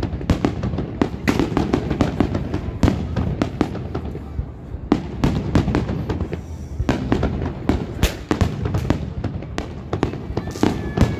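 Aerial fireworks shells bursting in rapid succession, a dense run of sharp bangs with crackling between them.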